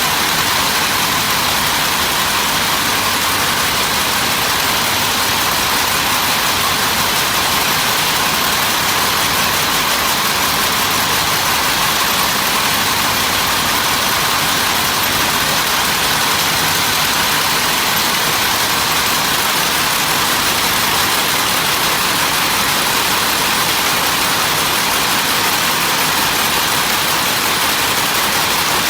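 Steady, unchanging machine noise, mostly a hiss, with no distinct strokes or pauses.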